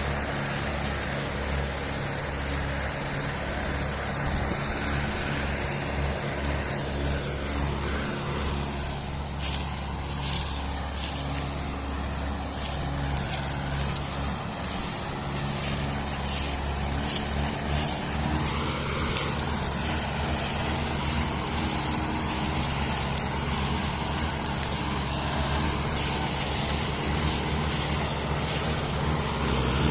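Mahindra tractor diesel engines running steadily while hauling heavy loads of sugar cane, a low, even engine drone, with a clatter of short clicks or rattles from about ten seconds in.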